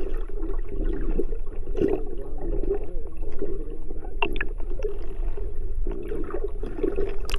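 Seawater sloshing and gurgling against a fishing boat's hull over a steady low rumble, with a few light knocks about four seconds in.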